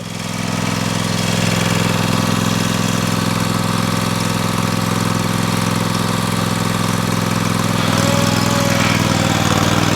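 Tractor engine running steadily under load, pulling a little harder about a second and a half in and again near the end.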